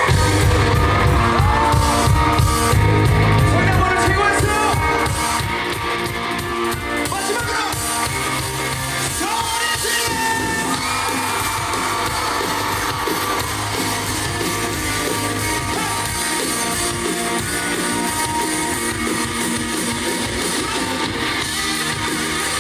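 Live band playing the instrumental part of a rock-pop song, with fans shouting and screaming over the music; loudest in the first few seconds, then steady.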